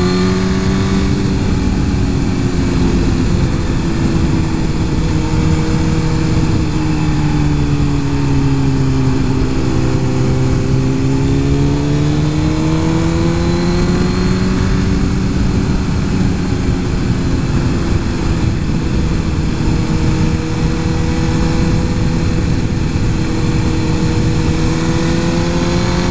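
Suzuki GSX-R 1000's inline-four engine running steadily under way, its pitch sagging slowly about eight to eleven seconds in and then climbing back, over a steady rush of wind noise.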